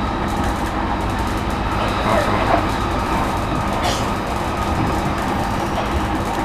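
JR East E233-1000 series electric train running at speed, heard from inside the car: a steady rumble of wheels on rail with motor hum. There is a brief sharp click about four seconds in.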